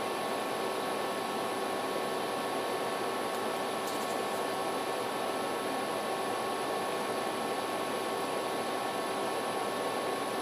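Steady, unchanging hiss with a few faint constant whining tones, like background room or equipment noise.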